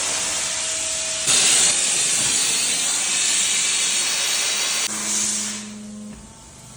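A loud, steady hiss of air or gas under pressure. It jumps louder about a second in and cuts off suddenly near five seconds, leaving a low steady hum.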